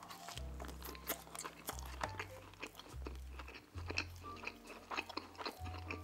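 Close-miked chewing of pizza crust: many crisp crunches and wet mouth clicks. Soft background music with a low bass line underneath.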